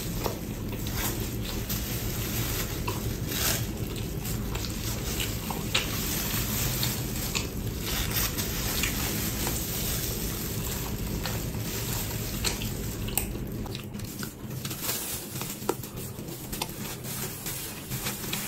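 Close-miked biting and chewing of a soft wrap, with wet squishing mouth sounds and many short clicks, over a low steady hum.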